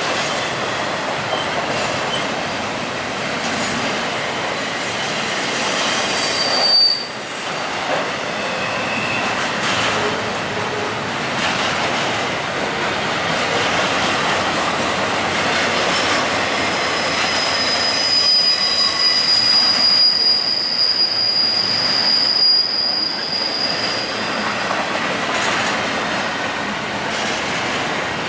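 Intermodal freight train cars rolling past, a steady din of wheels on rail with clatter. A brief high-pitched wheel squeal comes about six seconds in, and a longer steady squeal runs from about seventeen to twenty-four seconds.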